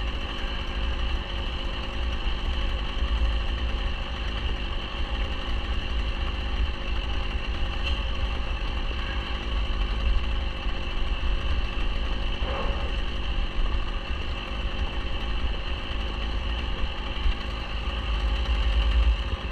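An engine idling steadily under a low rumble, with no change in speed.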